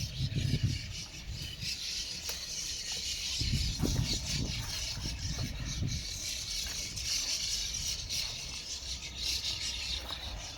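A large flock of birds calling and chattering all at once, a continuous dense high-pitched din, with low rumbles of wind or handling on the microphone near the start and again around the middle.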